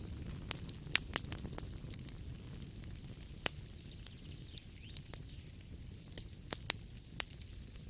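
Wood fire crackling in a fireplace: sharp, irregular pops and snaps over a steady low rumble of the burning fire.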